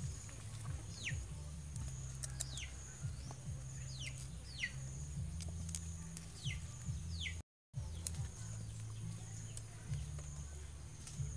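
A bird repeats a short falling whistle every second or so over a steady high-pitched hum. Sharp clicks of scissors snipping fried giant spiders come now and then. The sound cuts out briefly about two-thirds of the way through.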